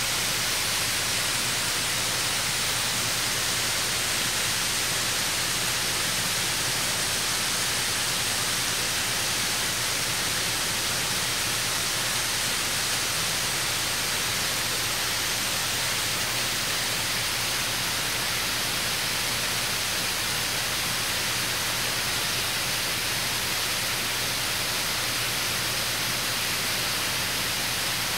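Small waterfall, a stream pouring down a rock face: a steady, even rush of falling water.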